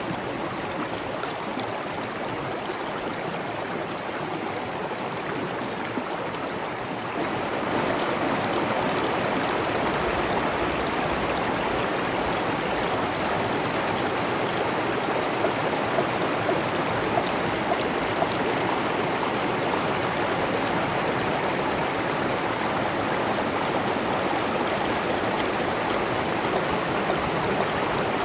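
Steady flowing water with no speech, becoming louder and fuller about seven seconds in.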